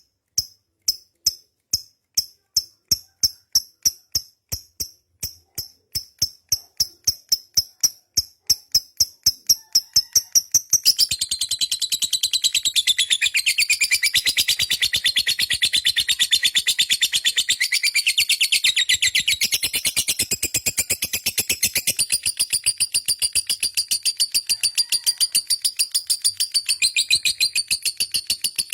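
Lovebird giving its long 'ngekek' call: a series of sharp high chips that speeds up over about ten seconds, then runs into a long, unbroken rapid chatter.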